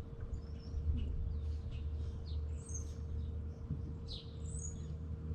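Songbirds chirping and calling in short, scattered notes over a steady low rumble and a faint steady hum.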